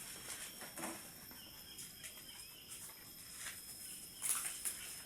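Faint steady high-pitched insect trilling, with scattered light rustles and clicks, one a little louder about four seconds in.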